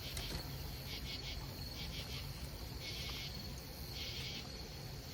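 Crickets chirping in short pulsed bursts of a few pulses each, with two longer trills around three and four seconds in, over a low steady background hum.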